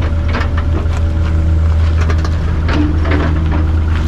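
Excavator engine idling steadily, with several sharp knocks and clatters over it, the busiest stretch just under three seconds in.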